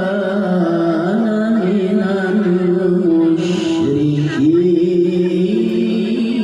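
A male Quran reciter chanting in melodic tilawah style in a high voice, holding long ornamented notes that waver and turn. There is a brief breathy hiss about three and a half seconds in.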